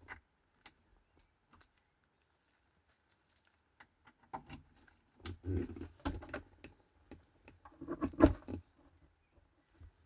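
Keys jangling, with scattered sharp clicks and short rattles; two louder rattling clusters come about halfway through and near the end. No engine is running.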